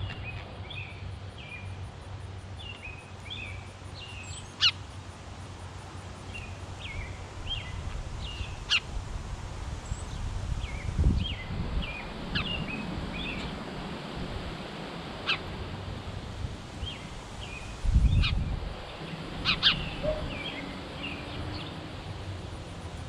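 Small backyard birds chirping in rapid, short repeated notes, with a few sharper, louder single notes or clicks standing out now and then and brief low rumbles about halfway through and again near the end.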